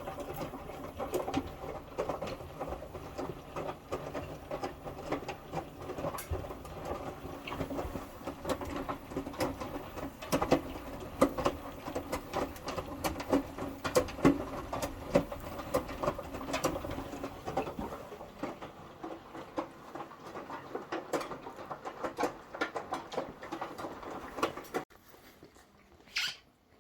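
Indesit washing machine running with its top and back covers off, on the wash cycle: the drum turns and water splashes and sloshes with a constant patter of small knocks. The sound drops away sharply about two seconds before the end.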